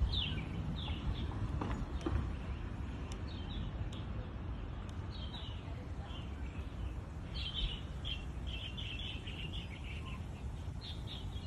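Small birds chirping: short, falling chirps in scattered runs, with a longer busy run past the middle, over a steady low rumble of outdoor background noise.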